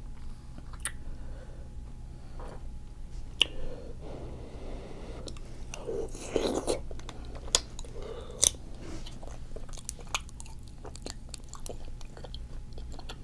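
Close-up mouth sounds of eating seafood boil: chewing, biting and wet smacks with scattered sharp clicks, busiest about six to seven seconds in, over a low steady hum.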